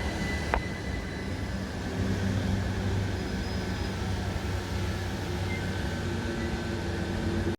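Southern class 377 Electrostar electric multiple unit running at a station platform, a steady low hum.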